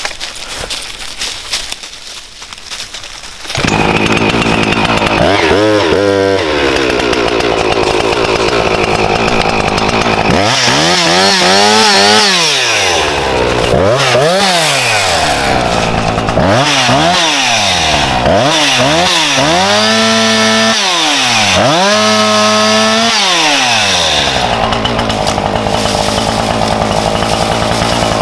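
Husqvarna chainsaw running. It comes in suddenly about three and a half seconds in, revs up and down several times, then holds steady at high speed for the last few seconds.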